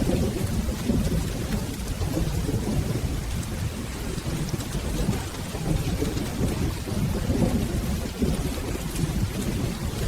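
Steady rain with a low, continuous rumble of rolling thunder.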